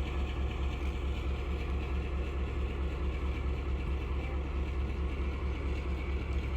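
Steady low rumble and running noise of a moving train.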